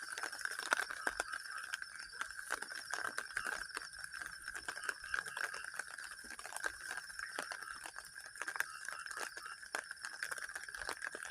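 Steady night chorus of frogs and insects, one high pulsing trill over a lower continuous drone, with many irregular small ticks and taps scattered through it.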